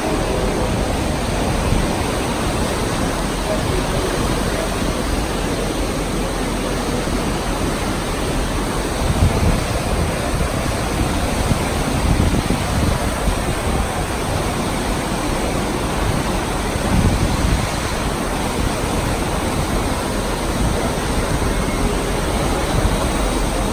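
Steady rushing noise aboard a moving passenger train, with a low rumble: wind and the rolling sound of the cars on the track.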